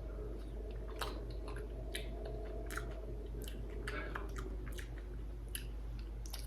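Eating freshly cut dragon fruit with a spoon: scattered small clicks and wet mouth sounds at an uneven pace, over a steady low hum.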